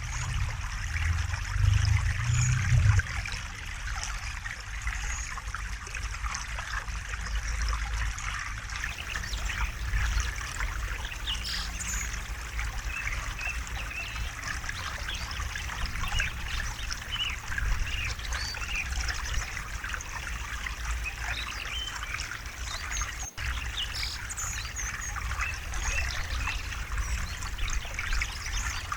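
A river or stream flowing steadily, water trickling and splashing over rocks, with faint bird calls here and there. A low rumble swells in the first few seconds, and the sound drops out for an instant about two-thirds of the way through.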